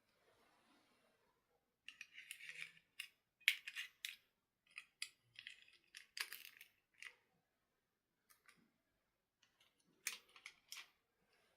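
Small handling sounds: sharp clicks, taps and short crinkly rustles of hands working with plastic toys or packaging, in two clusters with a pause of a few seconds between them.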